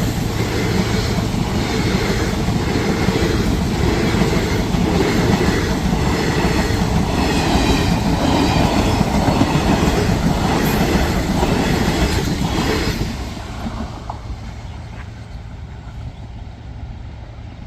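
Passenger express train rolling past, a steady rumble with the wheels clacking over rail joints about once a second. The rumble drops off sharply about 13 seconds in.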